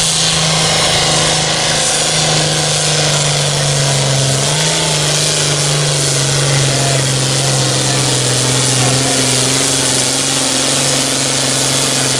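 Tractor-pull engine running hard at full throttle, a loud steady drone whose pitch steps down a little about four seconds in and then holds.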